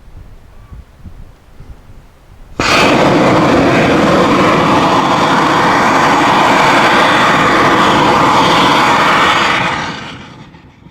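Large sugar-propellant (sorbitol, R-candy) solid rocket motor firing on a static test stand: it ignites suddenly about two and a half seconds in, burns with a loud, steady roar for about seven seconds, then tails off near the end.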